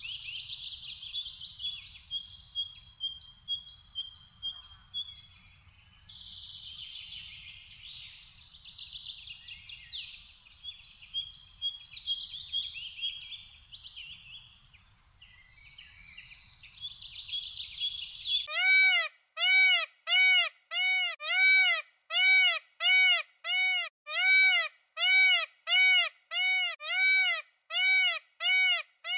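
Small birds chirping and trilling. About eighteen seconds in, a louder animal call takes over: short arched notes repeated evenly, about one and a half a second.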